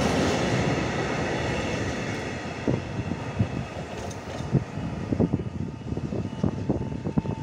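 A freight train of railway tank wagons rolling past on the track. Its rumble and wheel noise fade over the first two or three seconds as the last wagon clears. Irregular sharp low thumps follow, with a faint steady tone near the end.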